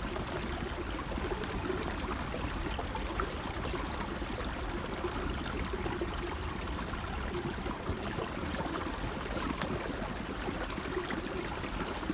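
A small hill stream running steadily, with water gurgling into a gravity filter bag as it is dipped and filled.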